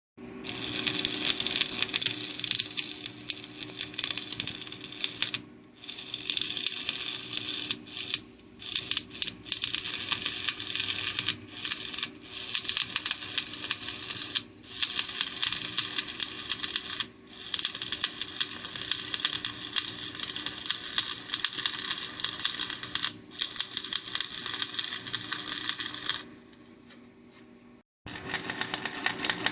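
Electric welding arc crackling in long runs on steel, broken by a few short pauses between beads. It stops about 26 seconds in, then starts again near the end.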